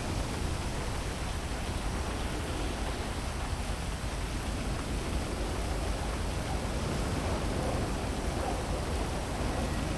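Heavy rain falling steadily: an even, unbroken hiss with a low rumble beneath it.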